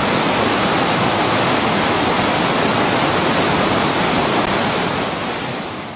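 A river in flood rushing and churning over rocks, a loud, steady roar of water that fades out over the last second.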